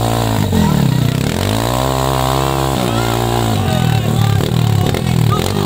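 Enduro dirt bike engine revving up and down under throttle, its pitch rising and falling in swells of about a second, with shorter, choppier throttle blips in the last couple of seconds.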